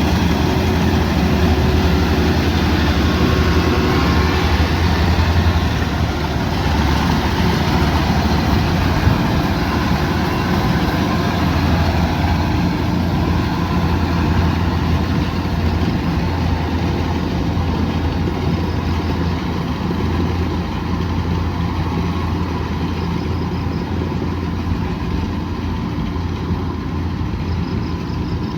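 Kubota DC108X combine harvester's diesel engine running steadily with a heavy low hum.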